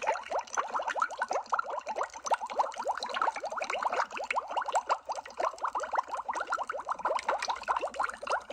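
Underwater bubbles streaming continuously, a dense overlapping run of quick blips that each rise in pitch.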